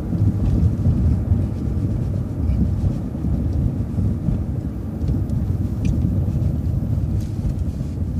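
City transit bus driving at low speed, a steady low rumble of engine and road noise.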